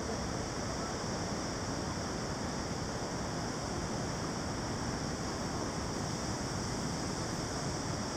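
Steady rushing of running water, an even roar with a bright hiss, unbroken throughout.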